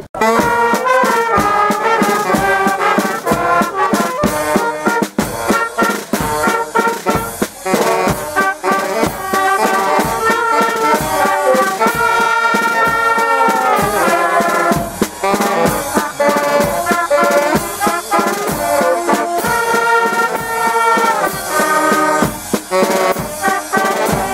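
Brass band playing an upbeat tune, trumpets and trombones over a steady beat, cutting in suddenly at full volume.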